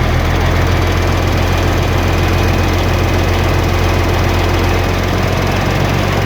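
Mercedes-Benz truck diesel engine idling steadily with a constant low hum, the alternator charging the 24-volt system at about 28 volts.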